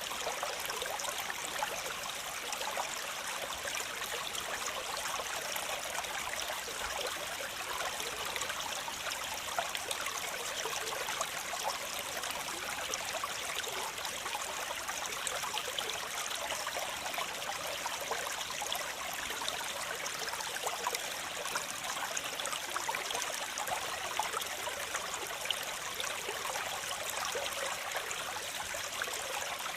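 Flowing water running steadily, an even rushing hiss with no breaks, from a waterfall or stream.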